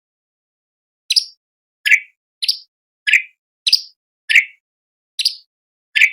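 Orange-bellied leafbird calling: starting about a second in, eight short, sharp notes in a row, about two a second, each dropping quickly in pitch.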